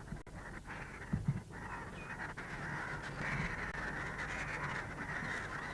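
Birds calling over a steady hiss.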